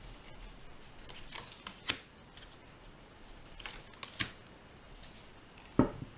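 Tarot cards being handled on a table: short rustling slides of card on card, sharp card clicks twice, and a duller tap near the end.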